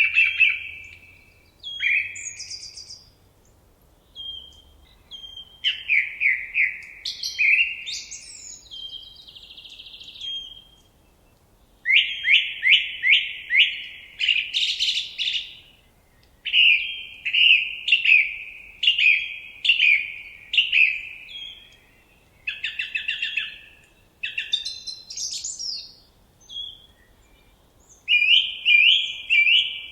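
Songbirds singing: phrases of quick repeated chirping notes, one after another with short pauses between, and some higher, thinner notes mixed in.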